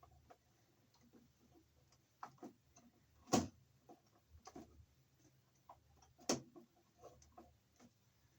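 Hands working wires and tools in an electrical junction box: scattered light clicks and taps, with two sharper knocks about three and six seconds in.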